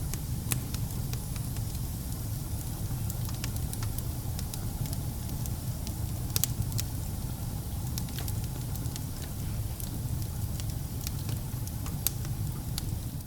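Wood fire burning in a fireplace: a steady low rumble of the flames with scattered sharp crackles and pops, a few louder pops about halfway through and again near the end.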